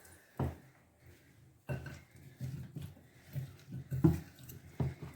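A spoon stirring chopped fruit salad in a bowl: irregular soft knocks and wet shuffling of the fruit, with a few sharper knocks of the spoon against the bowl.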